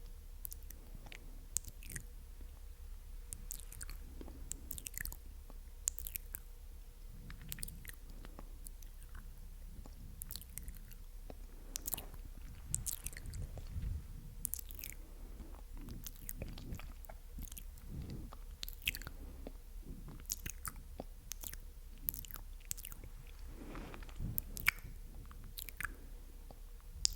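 Close-miked ASMR mouth sounds: irregular clicks and smacks of lips and tongue, a few each second, with no speech.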